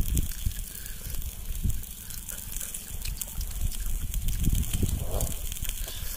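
Wind buffeting the microphone: an uneven low rumble that swells in gusts, with light crackling.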